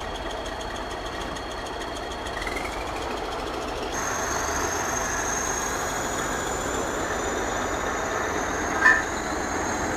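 Heavy tractor truck's engine working hard under load, pulling a trailer and a towed truck up a slope: a steady, dense noise with a thin high whine joining about four seconds in and one sharp click near the end.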